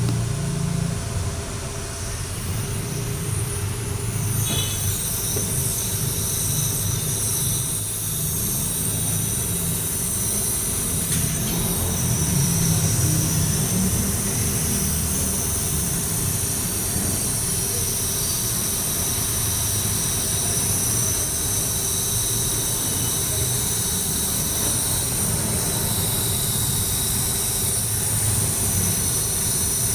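Toyota Corolla Altis engine running with a steady high-pitched squeal from its drive belt. From about four seconds in the squeal grows stronger. The noise comes when the A/C engages and is caused by a cracked belt.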